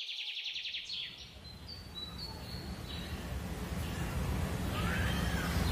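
Small birds calling outdoors: a rapid high trill at the start, then a few short high chirps. A steady low rumble of background noise runs underneath and grows slowly louder.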